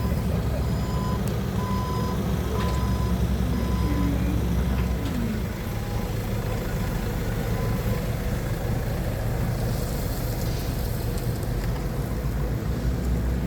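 Forklift engine running steadily while its reversing alarm beeps in a regular on-off pattern for the first four seconds or so, then stops as it leaves reverse.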